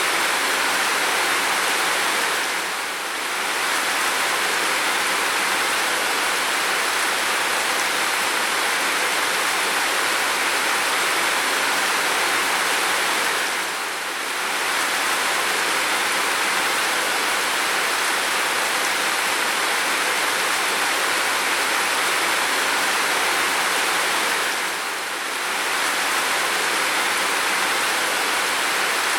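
Heavy rain falling steadily as an even hiss with no separate drops standing out. It dips briefly in level about every eleven seconds.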